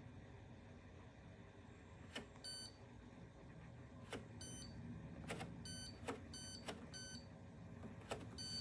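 Candy tumble dryer's control electronics giving about six short, faint electronic beeps, most coming just after a sharp click, over a low steady hum.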